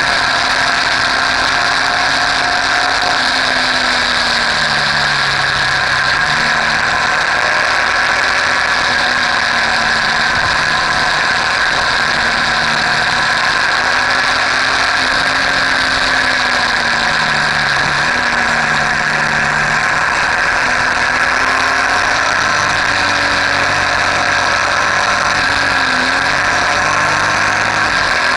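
Motorcycle engine running on the move, its pitch dipping and rising every few seconds with the throttle and gear changes, over a steady rushing noise.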